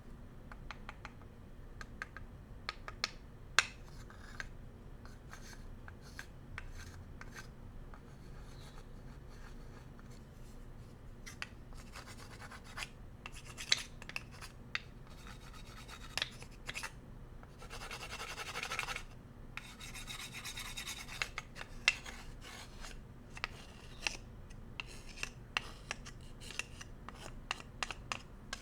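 Bamboo cooking utensils rubbed and scratched close to the microphone, with scattered light taps and clicks and a denser stretch of scraping about two-thirds of the way through.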